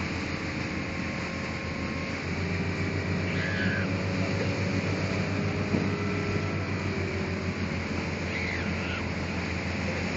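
Motorboat engine running steadily under way: a low hum beneath a constant noisy rush, with two faint brief higher sounds about a third of the way in and near the end.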